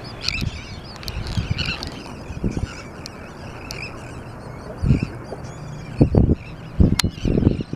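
Many seabirds calling at once, gulls and terns in a feeding flock, in a dense chatter of short, overlapping honking and squawking calls. Several loud low thumps come in the second half, and there is one sharp click near the end.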